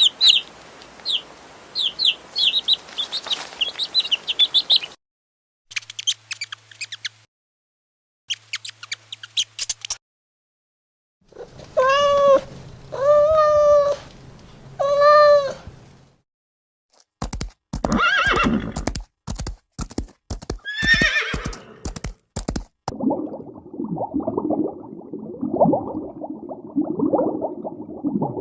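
A run of separate animal calls, one after another: rapid high chirps, short clicking bursts, three drawn-out pitched calls, then a call that falls in pitch, and low rough grunting near the end.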